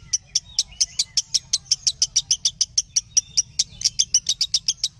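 Lovebird chattering in a fast, even run of short, high chirps, about eight or nine a second.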